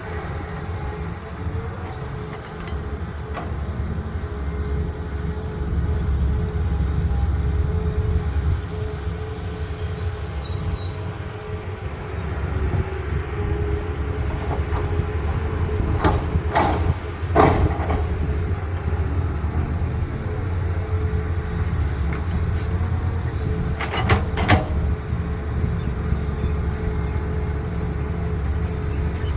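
Caterpillar excavator's diesel engine running steadily with a held hydraulic whine. Sharp knocks come a little past halfway and again about seven seconds later.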